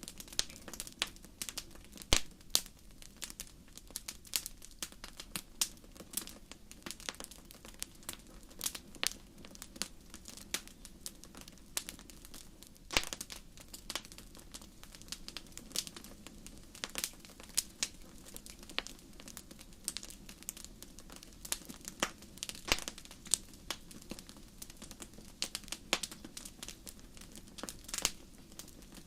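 Wood fire crackling: irregular sharp pops and snaps, a handful of them louder, over a low steady rumble.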